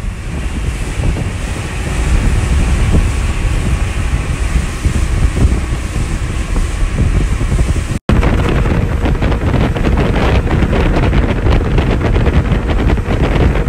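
Strong wind buffeting the microphone on a moving boat at sea, with water rushing alongside. The sound drops out for an instant about eight seconds in.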